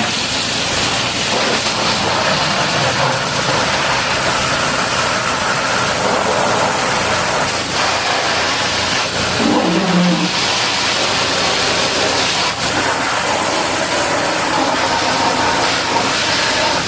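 High-pressure water jet spraying the steel body of a bulldozer during washing: a steady, loud hiss.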